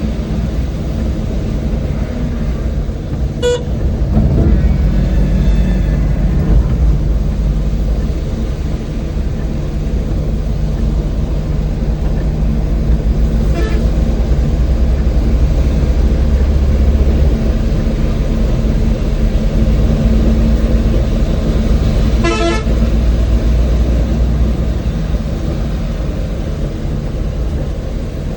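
An old van's engine and road noise drone steadily while driving. Three short vehicle-horn toots sound along the way, the last one the longest.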